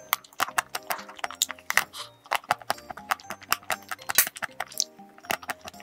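Close-miked chewing and wet mouth sounds of a soft cream-filled cake being eaten: many quick smacks and clicks, over soft background music.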